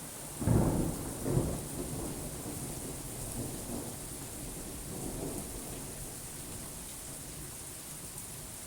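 Steady rain with a thunderclap about half a second in and a second loud peak just under a second later, then rumbling that dies away over the next few seconds.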